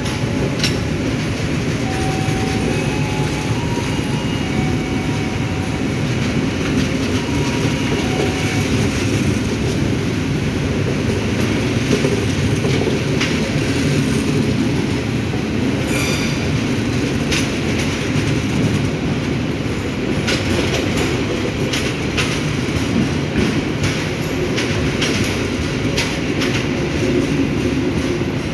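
Stainless-steel passenger train coaches rolling past close by. A steady rumble of wheels on rails runs throughout, with scattered clicks and clacks from the track.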